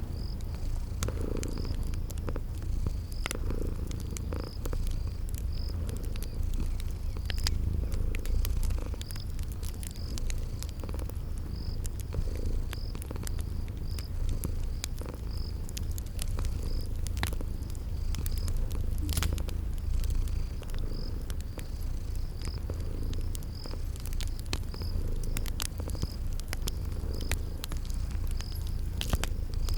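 A cat purring with a steady low rumble, over a wood fire crackling with scattered sharp pops. A cricket chirps regularly, a little more than once a second.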